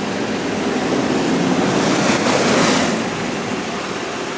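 A bus passing close by: a rush of engine and road noise that swells to a peak a little after halfway through, then fades.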